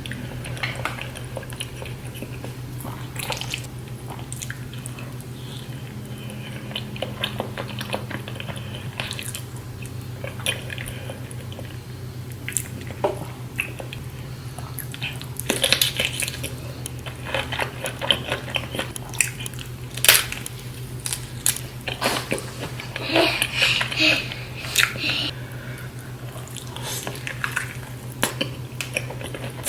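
A person eating a saucy seafood boil close to the microphone: biting and chewing, with wet smacking and many sharp clicks, denser in the second half. A steady low hum runs underneath.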